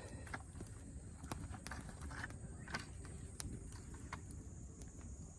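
Scattered sharp clicks and light knocks, a dozen or so irregularly spaced, over a low steady outdoor rumble.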